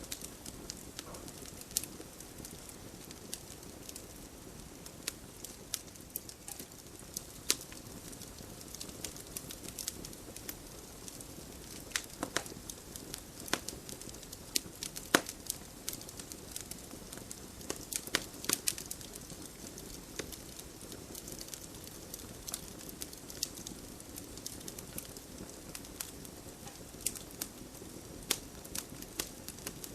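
Wood fire burning in a fireplace: irregular sharp crackles and pops, a few louder snaps, over a steady low rush of flame.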